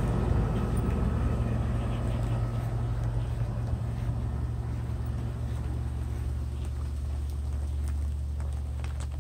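A steady low engine-like hum, slowly getting quieter, over light rain pattering.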